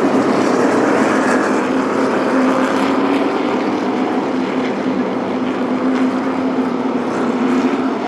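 NASCAR stock cars' V8 engines droning steadily on the track, one steady engine pitch holding through.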